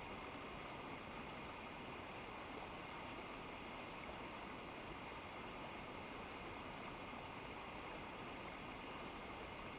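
Steady rush of water from a mountain river, an even noise with no breaks or separate events.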